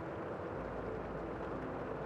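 Steady rain falling, a dull, even rush with little treble. A low hum comes in about half a second in.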